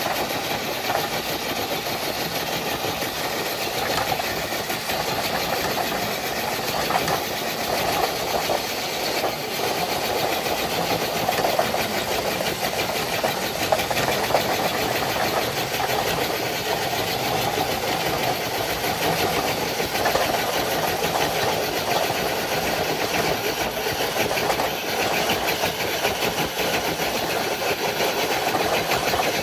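RC scale truck's electric motor and geartrain whining steadily under load while it pulls a weighted sled.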